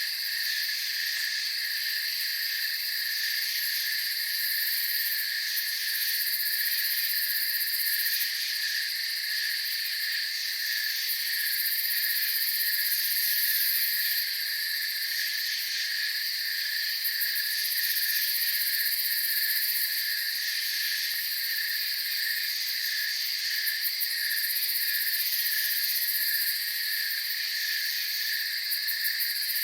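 Night chorus of crickets: a steady high trill with a lower, evenly pulsing chirp beneath it.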